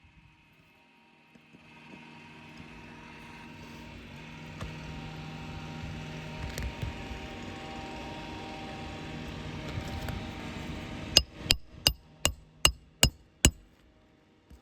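Seven quick, sharp metal strikes, about three a second, from a roof snake driving a roofing nail under an asphalt shingle. Before the strikes, a steady hum swells slowly over several seconds.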